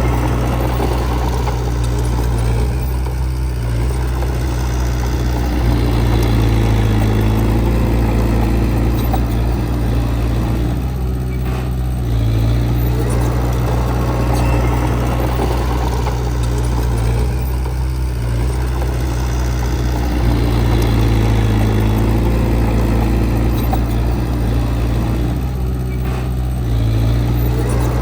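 Heavy earthmoving machine's diesel engine running steadily, its load and pitch easing and rising again in a repeating cycle about every seven to eight seconds as the machine works.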